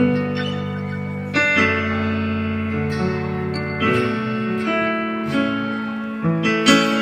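Keyboard playing sustained chords, a new chord every second or so: the instrumental intro to a song, before the singing comes in.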